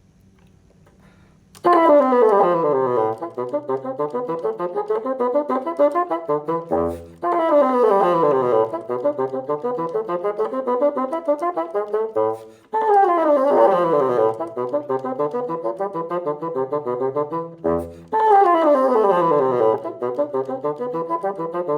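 Bassoon practice: a fast passage of notes that sweeps down from high to low, played four times over with short breaks between.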